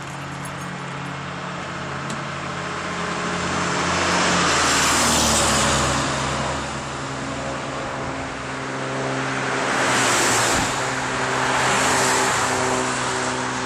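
Ford Mustang 4.0 L V6 running through an aftermarket Ford Racing (FRPP) exhaust: a steady idle, then revved three times, the exhaust note swelling about four, ten and twelve seconds in before dropping back.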